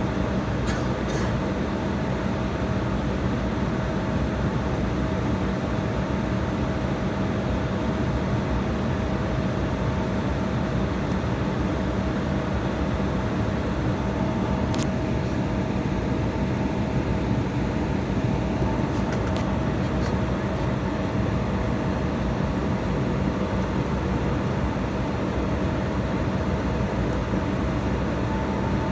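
Steady drone of an airliner's jet engines and air systems heard inside the passenger cabin while taxiing, with a constant hum and a few faint clicks.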